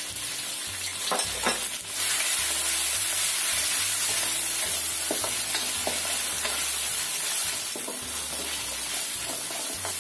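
Marinated chicken pieces sizzling as they fry in hot oil in a wok, the sizzle growing louder about two seconds in. A wooden spatula scrapes and knocks against the wok now and then as the chicken is stirred.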